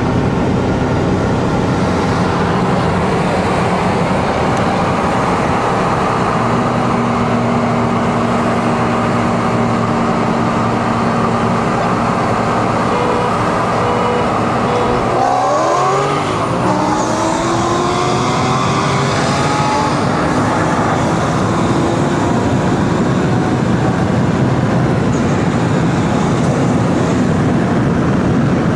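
Performance car engines running loud, with a steady engine tone for the first half, then pitch rising sharply about halfway through as a car revs and accelerates hard.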